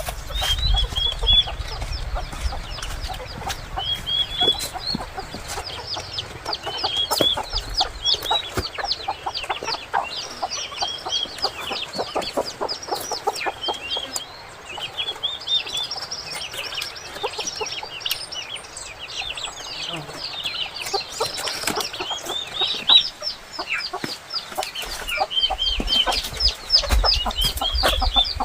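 A flock of chickens with many chicks peeping in a constant chorus of short, high, falling cheeps, along with a few sharp knocks.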